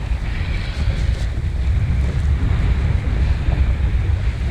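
Strong wind buffeting the microphone: a loud, fluttering low rumble.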